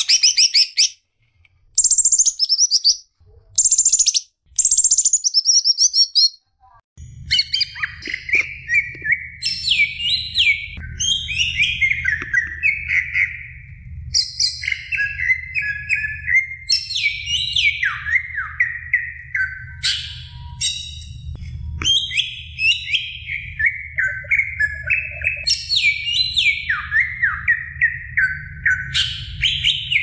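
Cucak ijo (green leafbird) song. It opens with loud, harsh, very high calls in short bursts for about six seconds. After a brief pause comes a continuous, varied warbling song of quick falling phrases over a low steady hum.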